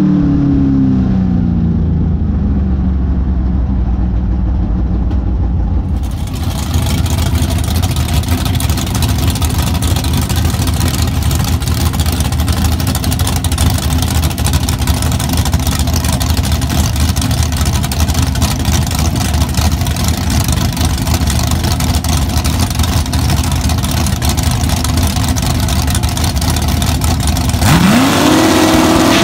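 A drag-racing car's engine, heard from inside the car, falls in pitch as it slows off the throttle after a pass. Then, from beside the track, cars run steadily at the starting line, loud and low. About a second and a half from the end, an engine revs up sharply as a car launches.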